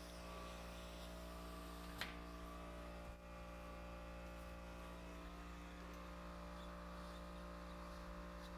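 Faint, steady electrical-machine hum from a nitrogen plastic welder unit running with its built-in nitrogen generator, with a single click about two seconds in.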